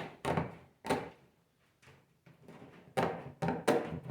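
Hand cutters snipping through 1/8-inch hardware cloth, a short sharp clip with each squeeze of the handles. Several cuts come in quick succession, then a pause of about a second and a half, then the cutting resumes.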